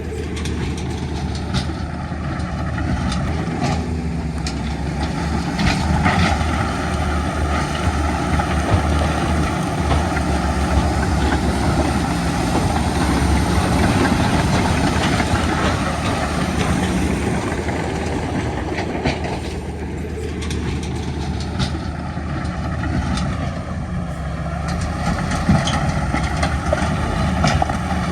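Heavy diesel earthmoving machinery running steadily, with scattered clanks. The engine note dips and comes back up twice, near the start and about two-thirds of the way through.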